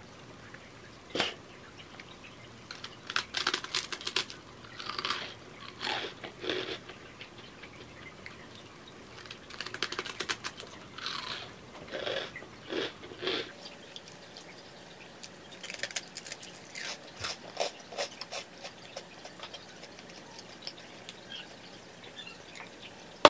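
Close-up eating sounds: crunchy bites and chewing of a dry, crisp biscuit, coming in irregular bursts of crackling crunches with pauses between.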